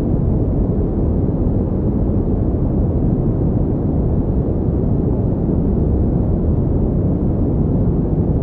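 Steady electronically generated pink noise: an even, deep rushing hiss that never changes.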